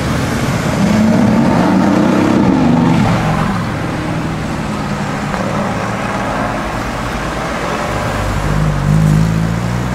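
Car engines accelerating in city traffic over steady road noise: one revs up about a second in, and a Mercedes-AMG GT's twin-turbo V8 pulls away near the end, its pitch rising.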